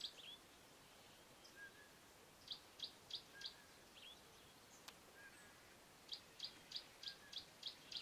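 A small bird chirping faintly: two runs of short high chirps, about three a second, the first of four notes and the later one of six.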